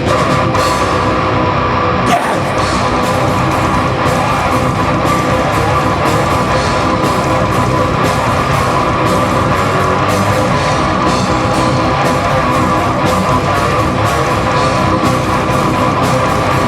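Live heavy rock band playing an instrumental passage: distorted electric guitars over a driving drum kit, loud and steady throughout.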